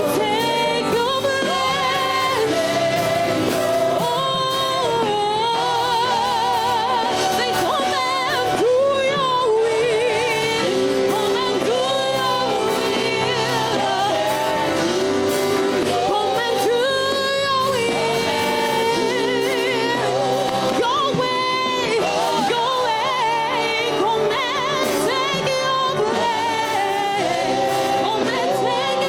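Gospel worship music: a voice sings long, wavering notes over steady instrumental backing.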